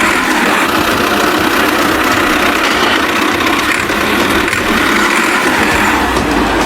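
A motor or engine running steadily and loudly, an even mechanical drone with no change in speed.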